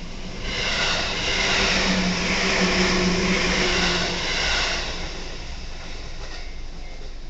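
Senseki Line electric train passing through a level crossing: the rumble and rush of wheels on rails swells to its loudest in the middle with a steady low hum, then fades after about five seconds.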